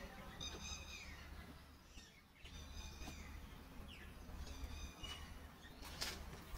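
A bird calls three times, about every two seconds: a short, high, buzzy chirp ending in a falling slur. Under it is a steady low outdoor rumble, and a single sharp tap comes about six seconds in.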